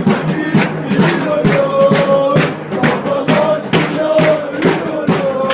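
Beşiktaş football ultras chanting together in unison over a steady drumbeat of about two to three strokes a second.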